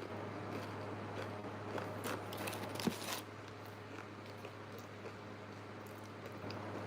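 Quiet close-up eating sounds: chewing and small mouth noises, with a few soft crackles about two to three seconds in and one sharp click, over a steady low hum.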